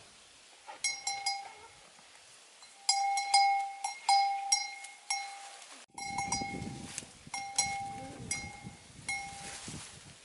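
Irregularly spaced metallic clinks, about a dozen, each ringing briefly at the same pitch. About six seconds in the sound cuts abruptly, and low rustling then runs under the clinks.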